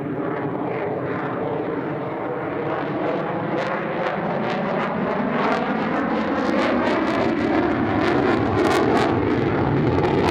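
F-35A jet's Pratt & Whitney F135 turbofan engine in flight, growing steadily louder as the jet comes closer. Sharp crackles run through it from about three and a half seconds in.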